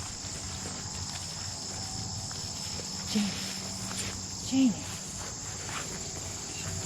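Steady high chirring of insects, with two short, low pitched sounds about three and four and a half seconds in, the second the louder.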